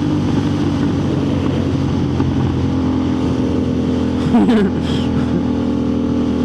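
Motorcycle engine running at speed with wind rush on a helmet-mounted microphone, a steady engine note with a brief falling tone about two-thirds of the way through.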